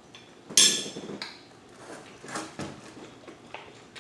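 Cutlery clinking and scraping against a dinner plate: one sharp clink about half a second in, then a few lighter clicks and scrapes.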